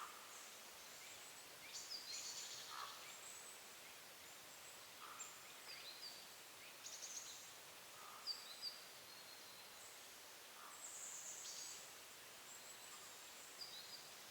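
Faint, short, high-pitched calls of small woodland songbirds, scattered irregularly throughout, with a somewhat longer call about eleven seconds in.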